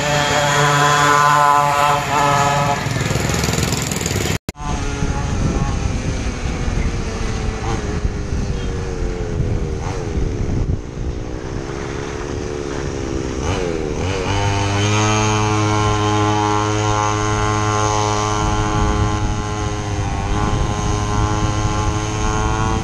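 Homemade mini bike's 49cc two-stroke engine running hard at high revs. It cuts off abruptly about four seconds in, the pitch sags and wavers for a few seconds in the middle, then climbs back and holds a steady high note at full throttle.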